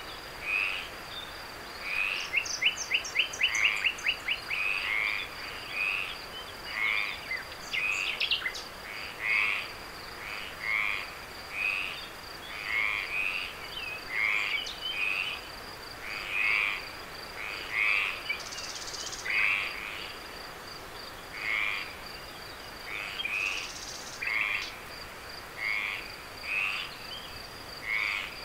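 Frogs calling in a night chorus: short croaking calls repeating about once a second, over a steady high-pitched trill.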